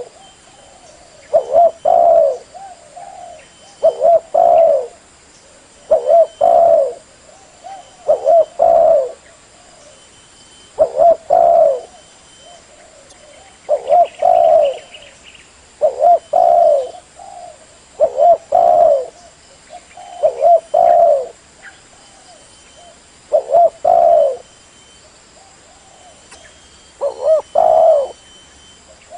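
Spotted dove (tekukur) cooing: a short phrase of a few notes, repeated about every two to three seconds.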